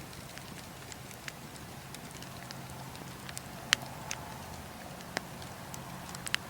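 Wood campfire burning, with sparse sharp crackles and pops from the logs and embers over a low, steady background. The loudest pop comes a little past the middle.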